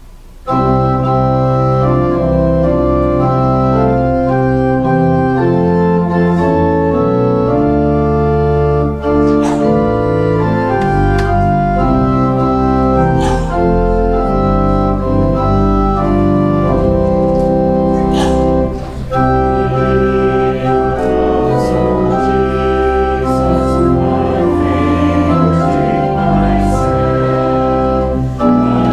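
Organ playing sustained, changing chords, starting about half a second in: the music for the opening hymn.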